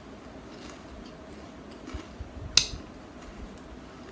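Quiet chewing of a mouthful of chocolate wafer bar, with one sharp click about two and a half seconds in.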